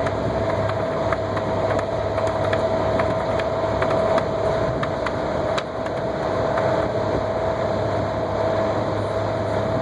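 Heathrow Express Class 332 electric train running along the line, heard from inside the passenger carriage: a steady rumble with a constant whine and scattered light clicks.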